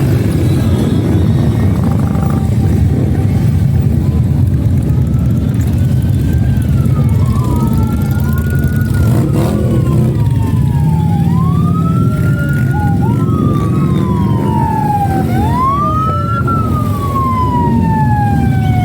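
Motorcycle engines rumble steadily. From about six seconds in, an emergency-vehicle siren wails over them: each cry rises quickly in pitch and then falls slowly over a second or two, and the cries repeat and sometimes overlap.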